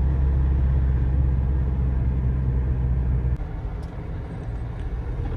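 Inside the cab of a GAZelle light truck on the move: a steady low engine and road rumble that drops suddenly to a quieter level about three and a half seconds in.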